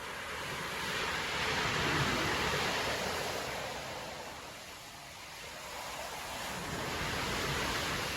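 Storm surf: two waves breaking and washing up the beach, the first swelling to a peak about two seconds in and fading, the second building near the end.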